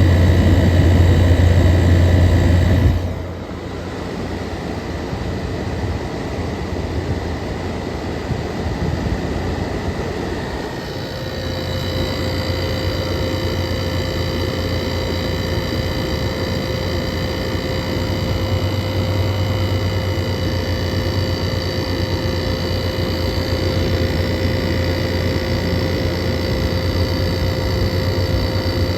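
Air conditioner running: a steady low hum that drops suddenly about three seconds in. From about eleven seconds, a steady whine of several high tones joins the hum.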